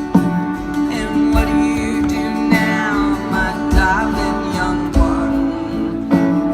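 Live band playing an instrumental passage: strummed acoustic guitar over a steady low beat, with a lead line bending in pitch in the middle.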